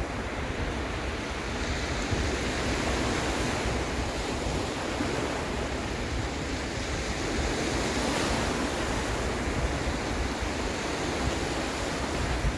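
Sea surf washing in steadily with gentle swells, mixed with wind on the microphone.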